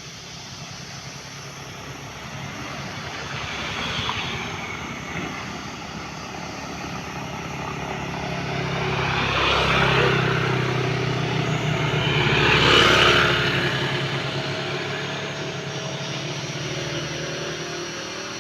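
Vehicle engine running under heavy load, its drone swelling about halfway through with hissy surges and peaking about two-thirds in, then easing off.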